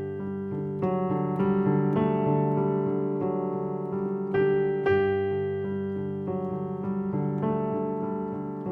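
Piano playing a gently flowing left-hand broken-chord pattern in G major, a new note about twice a second, with single right-hand notes on top, including a quick repeated root note as a sixteenth-note decoration.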